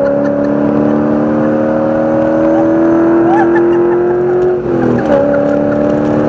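Race car engine under hard acceleration, its pitch climbing slowly and steadily, then dropping sharply at an upshift about three-quarters of the way through before climbing again.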